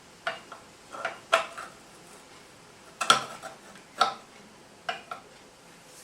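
Light clinks and knocks of small hard objects being handled, about ten in irregular clusters, each with a brief ring.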